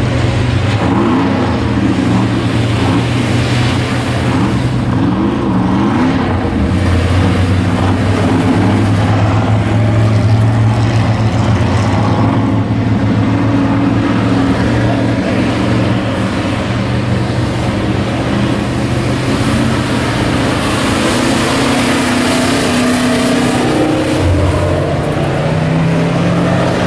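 Pack of stock race trucks running laps on an oval track, their V8 engines revving up and down through the turns.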